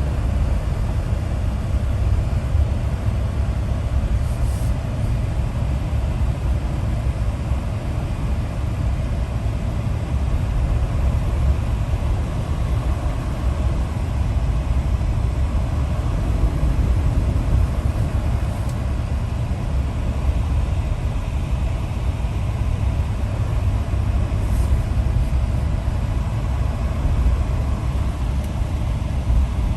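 Steady low rumble of a moving vehicle heard from inside, with no change in pace.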